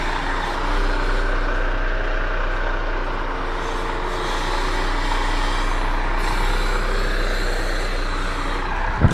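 Truck engine running steadily, with one sharp click just before the end.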